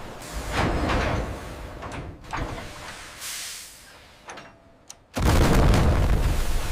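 Clanks and whooshing swells of noise, with a short near-quiet gap, then a sudden loud rush of rumbling noise about five seconds in.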